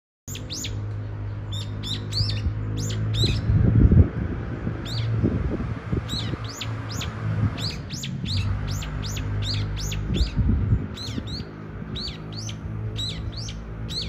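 Brown-eared bulbul calling: a rapid string of short, sharp notes, each sliding down in pitch, coming in runs with brief gaps. Underneath runs a low steady hum, with a louder low rumble about four seconds in.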